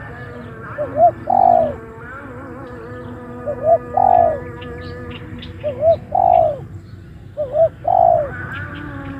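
Spotted dove (tekukur) cooing: four phrases, each a couple of short quick notes followed by one long, arched coo, repeated about every two seconds.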